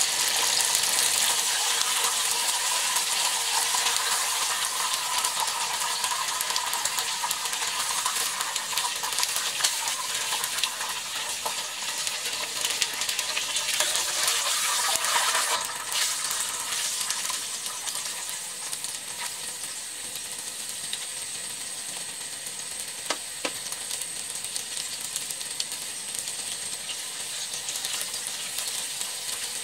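Chicken breast pieces shallow-frying in hot oil in a frying pan: a steady sizzle, louder in the first half and quieter after about halfway, with a single light click about two-thirds through.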